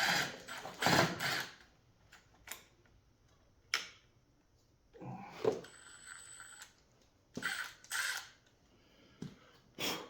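Cordless impact wrench fired in short bursts that stop and start, its battery running flat, with clicks and clatter from handling the tool and parts.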